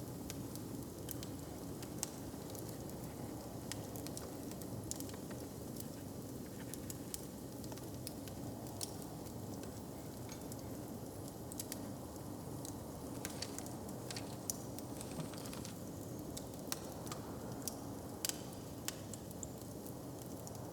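Wood fire crackling, with irregular sharp pops and snaps over a steady low rumble; the pops come a little more often and louder toward the end.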